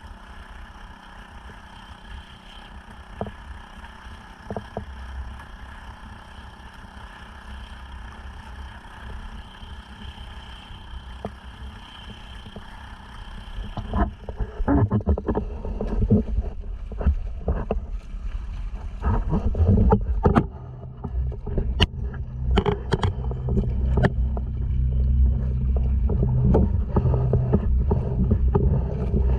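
Honda 2.3 hp four-stroke outboard driving a sea kayak, running steadily. About halfway through, loud irregular rumble with splashes and knocks takes over, the sound of wind on the microphone and water.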